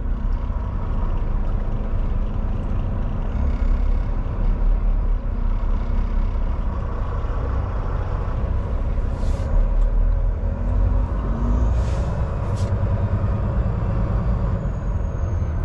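Semi-truck diesel engine idling steadily, with three short hisses of air in the second half, typical of air brakes.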